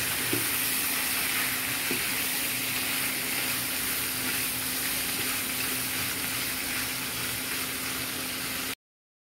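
Pieces of chicken breast frying in butter in a pan: a steady sizzle, with a couple of light knocks as they are stirred in the first two seconds. The sound cuts off abruptly near the end.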